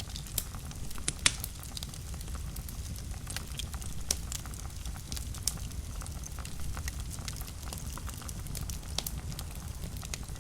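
Wood fire in a fireplace burning with a steady low rumble and frequent irregular sharp crackles and pops, one louder snap about a second in.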